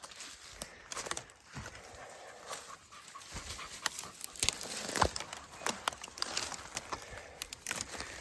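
Footsteps crunching through fallen branches and brush, with irregular sharp twig snaps and rustling, busiest about halfway through.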